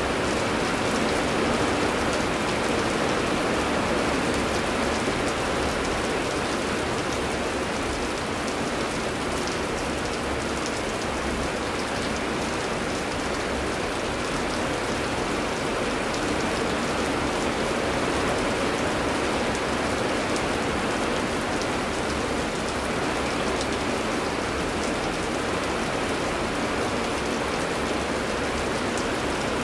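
Steady heavy rain, a continuous even hiss of drops falling on surfaces, with faint scattered patters.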